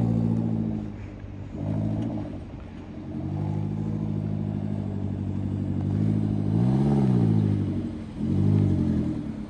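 Suzuki Jimny JB74's 1.5-litre four-cylinder engine running as the 4x4 drives in turns on loose sand and dirt, its note rising and falling with the throttle. The engine swells and dips twice in the last few seconds as it is revved.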